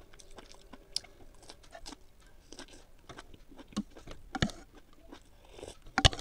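Close-up chewing of broccoli with the mouth closed: soft wet crunching and smacking with scattered small clicks. A few sharper knocks come through, the loudest near the end.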